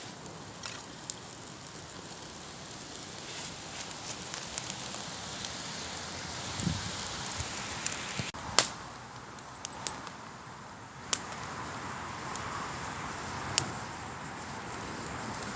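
Wood campfire crackling: a steady hiss with sharp pops now and then, a few of them louder.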